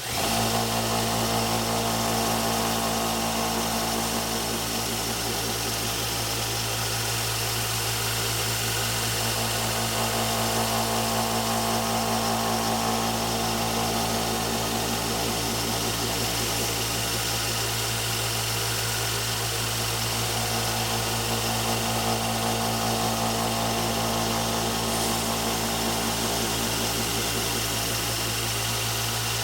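Wilton belt sander coming on and running steadily with a fine 9 micron abrasive belt, a knife edge held lightly against the belt to polish a convex edge and remove the last of the burr. The motor's steady hum sits under the hiss of the moving belt.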